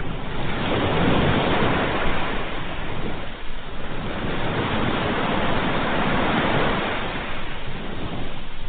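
Ocean waves breaking and washing on a shore, two surges of surf swelling and easing off within a few seconds.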